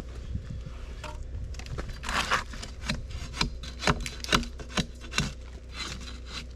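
Rhythmic rasping strokes on wood, about two a second, starting about two seconds in, over a steady low hum.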